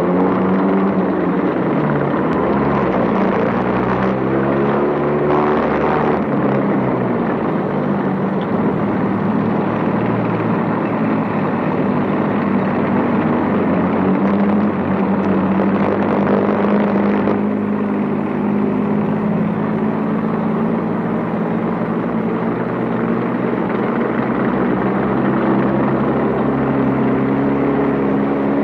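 Vehicle engines running continuously, the pitch of their drone rising and falling as they drive. There is more hiss in the first part, then a steadier engine drone from a little past the middle on.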